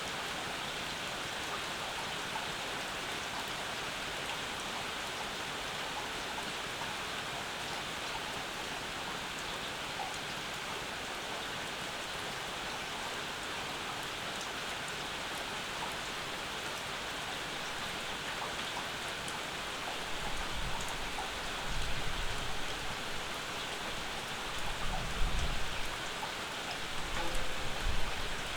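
Steady rain falling and pattering on surfaces. In the last third several low rumbles come and go, the loudest about 25 s in.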